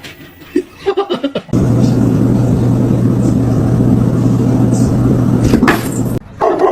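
A loud, steady machine noise with a low hum, starting suddenly a second and a half in and cutting off abruptly near the end, after a few short knocks.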